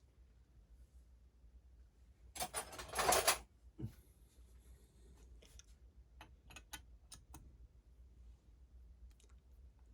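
Metal hand tools clattering for about a second as they are rummaged, then a dull knock and a few separate light metallic clicks.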